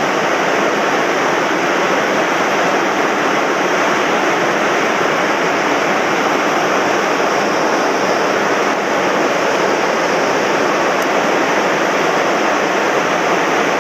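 Rushing water of a mountain stream running high and fast after heavy rain, loud and steady throughout.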